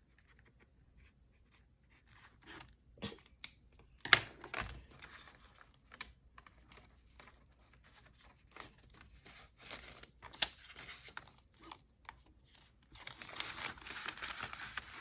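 Paper bills and envelopes being handled: rustling and crinkling with a few sharp clicks, the loudest about four seconds in and again about ten seconds in, and steadier rustling near the end.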